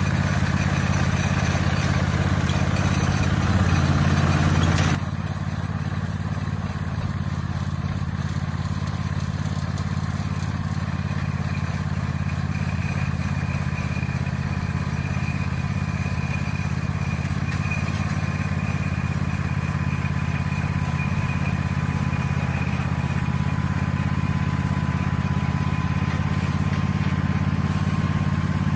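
Tractor engine running steadily while working a hay baler. About five seconds in the sound changes abruptly to a slightly quieter engine with a faint steady whine.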